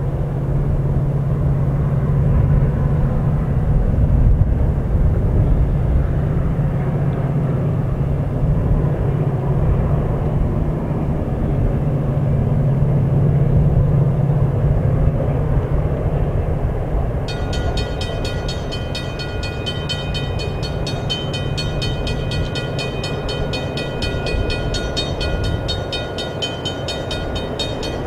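Diesel train running by on the tracks: a steady low rumble. About two-thirds of the way in, a fast, even high-pitched ticking with a ringing tone joins in.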